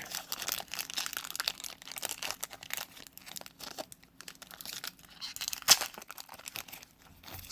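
Paper trading-card pack wrapper being torn open and crinkled by hand, a dense irregular crackling with one sharp snap near the end; the packs are stubborn to open.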